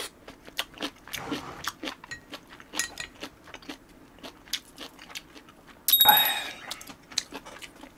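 Close-up chewing of a mouthful of ramen noodles: many small, irregular wet clicks and crunches. About six seconds in, a short louder sound with a high ringing tone cuts in.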